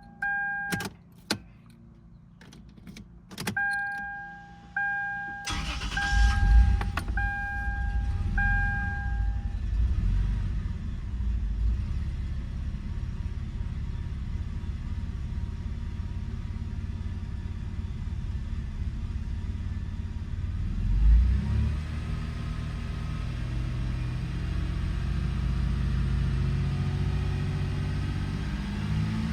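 A vehicle's dashboard chime beeps repeatedly, with a few clicks, as the ignition key is cycled. About five and a half seconds in, the 2002 Toyota 4Runner's engine cranks, catches and keeps idling with one brief surge near the end. It has its MAF sensor unplugged and is running in default mode.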